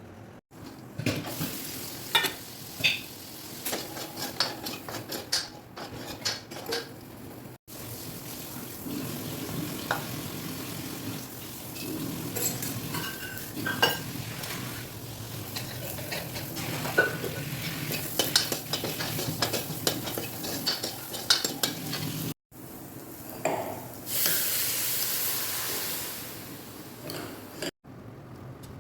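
Metal utensils clinking and scraping against a cooking pan while food is stirred, over a light sizzle. The sound breaks off abruptly a few times, and a steady hiss rises for about two seconds near the end.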